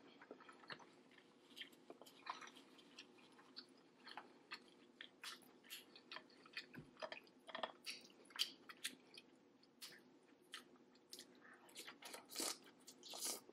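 Close-miked chewing and biting of seafood-boil food: many short mouth clicks in an uneven patter, with a louder burst near the end.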